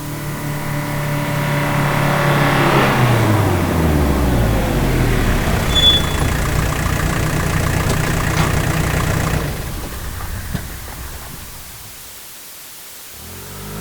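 Passenger car driving by: a steady engine note that drops in pitch about three seconds in as the car passes, followed by engine and road noise that fades away after about ten seconds.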